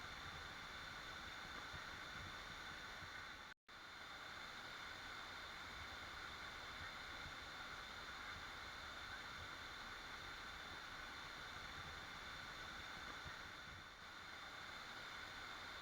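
Steady rush of a waterfall. The sound cuts out completely for an instant about three and a half seconds in, then carries on unchanged.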